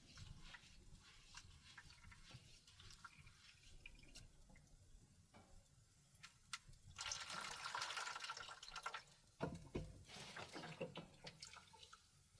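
Water dripping and trickling, faint with small scattered ticks at first, getting louder about seven seconds in, with a low thump near the tenth second.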